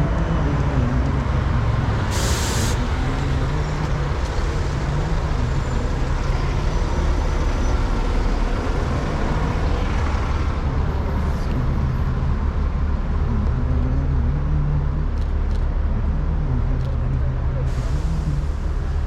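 Busy city street traffic: a steady low rumble of passing vehicles, with a short sharp hiss of released air about two seconds in and another near the end, like a bus's air brakes.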